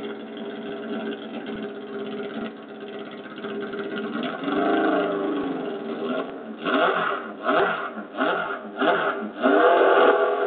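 Honda CB500F's parallel-twin engine idling steadily, then revved: one slow rise and fall about halfway through, about four quick throttle blips, and a held higher rev near the end.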